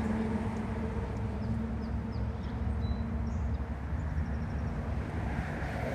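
Steady rumble of freeway traffic, with a vehicle's hum fading in the first few seconds. Faint, short, high bird chirps and a quick run of ticks come through between about one and a half and four and a half seconds in.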